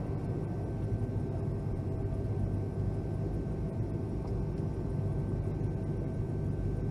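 Steady low hum inside the cabin of a Boeing 757-200 waiting to depart, with a few faint steady tones above it.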